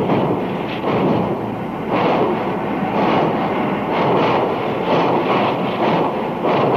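Two steam locomotives working a train together, their exhaust chuffs out of step with each other, so the beats come unevenly, roughly once a second.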